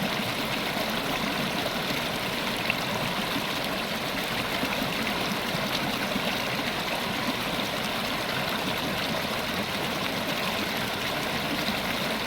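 River water running steadily over rocks, an even rushing and burbling.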